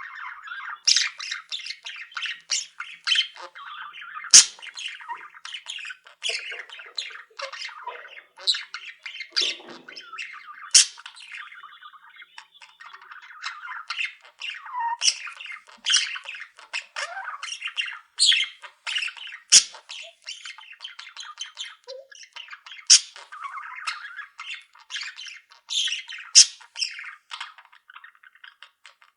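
A flock of caged budgerigars and finches chattering all at once, a dense unbroken chatter with frequent sharp squawks and high chirps.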